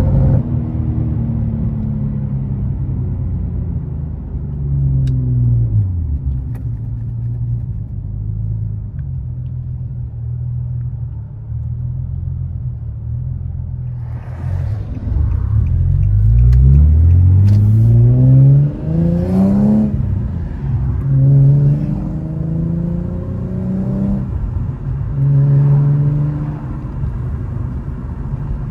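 Infiniti G37's 3.7-litre V6 engine running on the road. About halfway through it accelerates hard, its revs climbing and dropping as it changes gear, then it settles back to a steady cruise.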